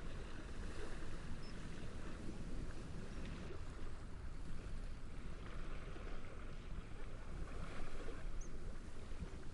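Gentle waves lapping and wind blowing steadily through reeds, with a couple of brief, faint high chirps.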